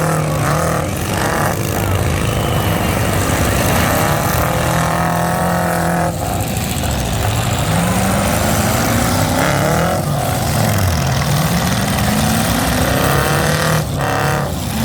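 Several derby truck engines running loudly, revving up and down in pitch, over a steady din.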